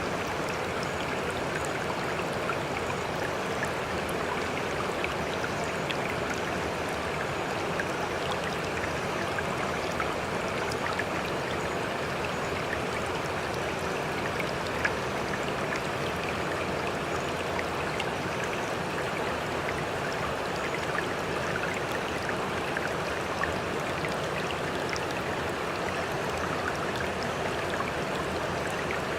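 Water rushing steadily, dense with small splashes and droplet ticks, with no rise and fall of breaking waves; a slightly louder splash comes about halfway through.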